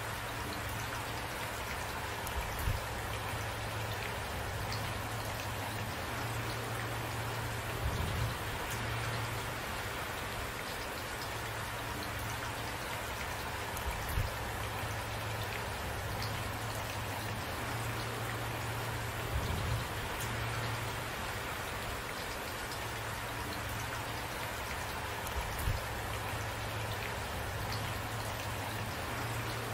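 Steady rainfall with a few brief low thuds every five or six seconds, heard over the rain.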